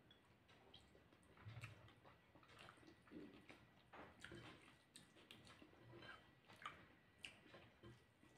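Faint chewing of rice with dal and posto, with soft irregular mouth clicks and the squish of fingers mixing rice on a plate.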